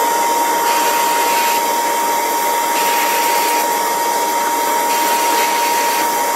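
A small electric motor, switched on just before, running steadily at full speed: a high whine over a rushing, airy hiss.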